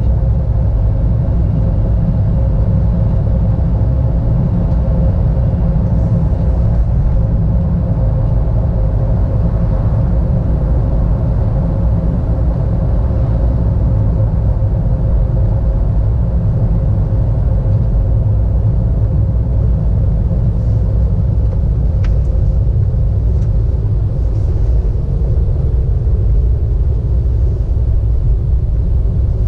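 Steady low rumble of a car's engine and road noise heard from inside the moving car, with a single brief click about twenty-two seconds in.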